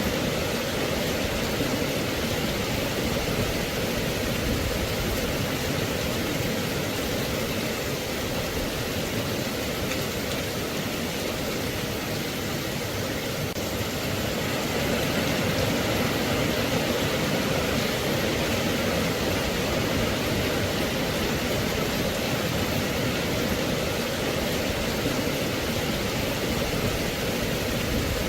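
Steady rain, a constant even hiss with no distinct drops, thunder or changes.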